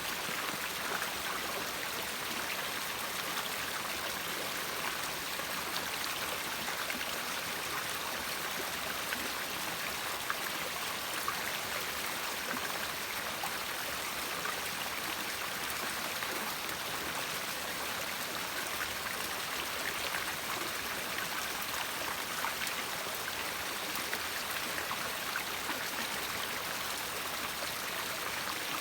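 River water flowing and splashing over rocks, a steady rushing sound with fine crackling spatter throughout.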